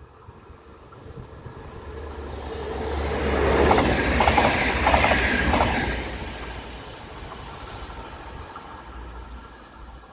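Electric passenger train passing through the station: its noise swells to a peak about four to five seconds in, with a quick run of wheel clicks over the rail joints, then fades away.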